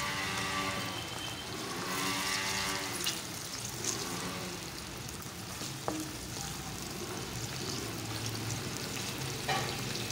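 Chopped tomatoes, just added to browned onions and garlic, sizzling and crackling in hot oil in a steel pan while a spatula stirs them, with a sharp tap of the spatula about six seconds in.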